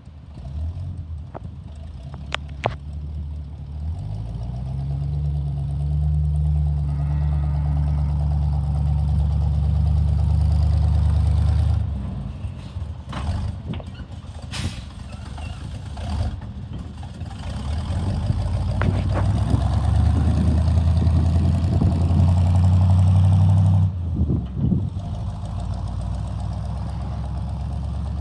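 1974 GMC 6500 truck engine running and revved twice. It rises about four seconds in and holds high until it drops back to idle at about twelve seconds. It climbs again from about eighteen seconds until it drops back near twenty-four seconds. A few sharp knocks come between the two revs.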